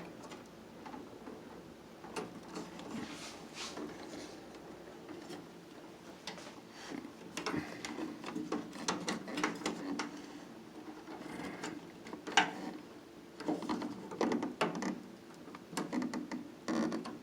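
Irregular clicks, taps and rattles of hands working a microwave's plastic door-switch assembly loose to remove the switch, with one sharper click about twelve seconds in.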